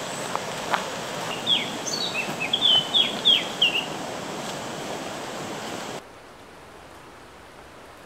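A songbird sings one short phrase of quick downslurred notes over a steady hiss of forest ambience. About six seconds in, the background suddenly drops to a quieter, steady rush.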